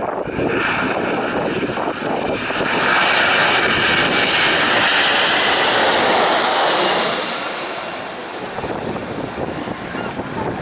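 Airliner passing low overhead: engine noise builds to a loud peak about halfway through, with a high whine that drops in pitch as it goes by, then fades away.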